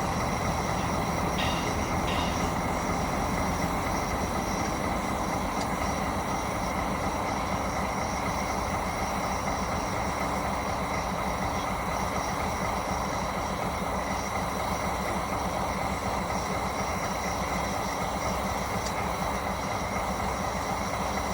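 DD51 diesel-hydraulic locomotive's diesel engine running steadily after start-up, with no change in speed.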